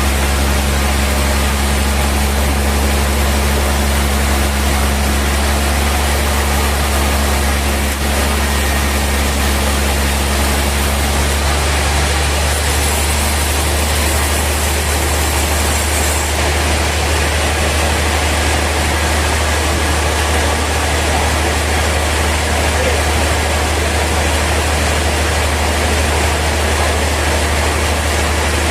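Sawmill machinery running steadily with a loud low hum. A lower droning tone drops out about eleven seconds in, and a brief high hiss comes in a little later.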